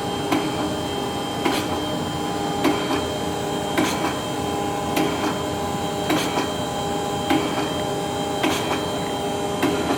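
Mitsui-Seiki MSG-250H2AH hydraulic surface grinder running on automatic feed: a steady hum with constant tones, and a short knock about once a second as the table reverses and steps the cross feed.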